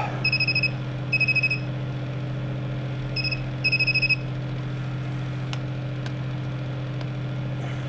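Voltage pen (non-contact voltage tester) beeping: four short high warbling beeps in two pairs, the alert that it has detected live voltage. A steady low electrical hum continues underneath.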